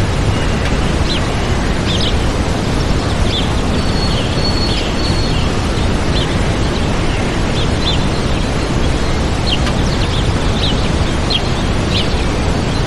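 Waterfall rushing steadily, with small birds chirping over it in short, scattered high calls and a brief held whistle about four seconds in.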